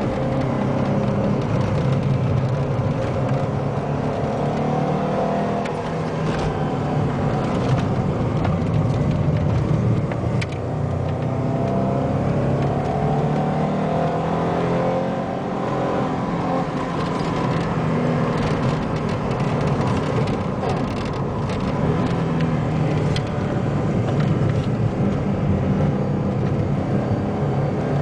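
Alfa Romeo 33 1.7 16v's flat-four engine heard from inside the car under hard driving on track, its pitch rising and falling again and again as it revs up and changes gear.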